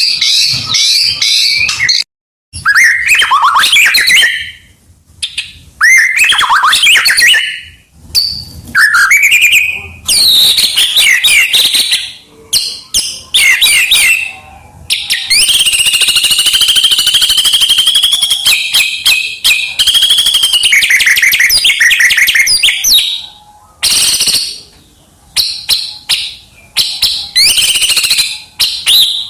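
White-rumped shama (murai batu) singing loudly in full song, its phrases packed with mimicked calls. It gives a run of varied whistled and chattering phrases separated by short pauses, with a long unbroken stretch of rapid notes about halfway through.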